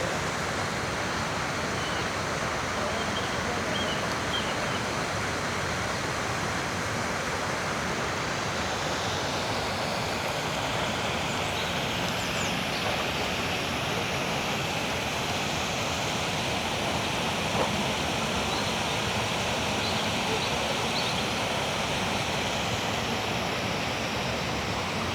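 Steady rushing outdoor noise, like running water or a constant traffic wash, with a few faint high bird chirps over it.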